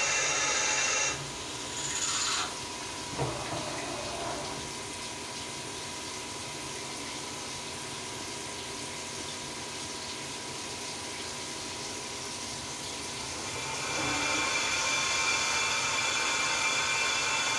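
CNC milling machine running with a steady whine of many fixed pitches that cuts out about a second in, followed by a brief hiss and a sharp clunk. A quieter machine hum carries on until the whine builds back up about fourteen seconds in.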